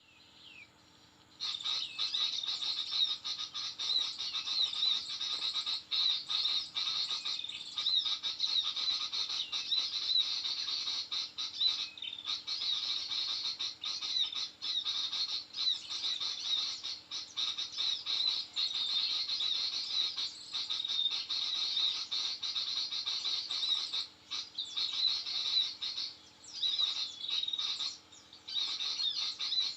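Dense, continuous high-pitched bird chirping and twittering that starts abruptly about a second and a half in, with short breaks near the end.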